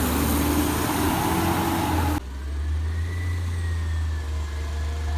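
Garbage truck engine running and slowly rising in pitch. It cuts off abruptly about two seconds in to a quieter stretch with a steady low engine hum and faint gliding tones.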